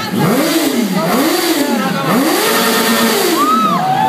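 Motorcycle engines revved over and over, each rev climbing in pitch and dropping back, about four revs in a row. A second, higher-pitched rev sweeps up and down near the end.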